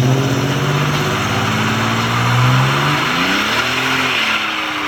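A loud drag-racing engine running at a steady pitch, with a brief rise and fall in revs about three and a half seconds in.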